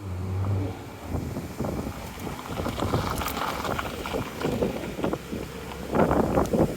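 Wind buffeting the microphone in irregular gusts, with a low engine hum briefly at the start and a louder gust about six seconds in.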